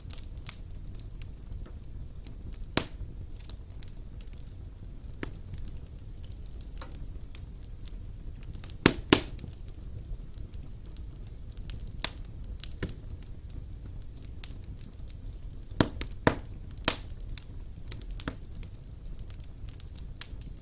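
Wood fire burning in a fireplace: a steady low rumble of flames with scattered sharp crackles and pops, the loudest pairs of pops about nine seconds in and again about sixteen seconds in.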